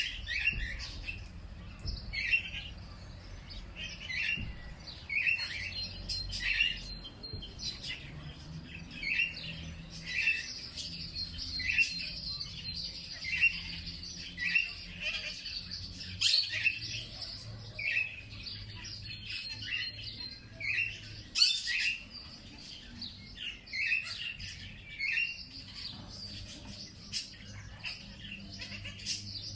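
Birds chirping in a steady series of short, repeated calls about once a second, with a faint low hum underneath.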